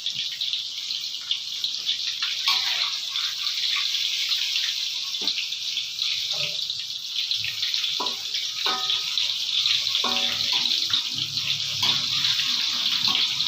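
Banana pieces frying in hot oil, sizzling steadily with a crackling hiss.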